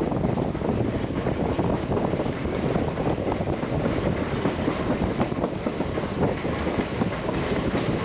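Train rolling steadily along the track: a continuous rumble with the wheels clicking and clattering irregularly over the rails.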